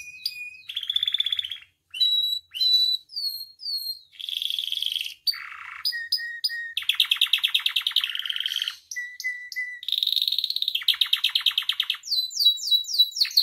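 Domestic canary singing a long varied song: fast trills and rolls alternating with repeated whistled notes, each phrase lasting about a second before switching to the next.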